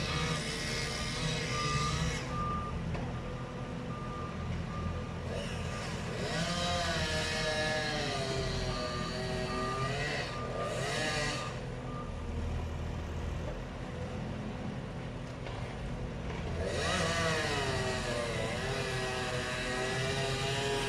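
A heavy vehicle's engine revving up and down, with a reversing alarm beeping in an even rhythm for roughly the first half.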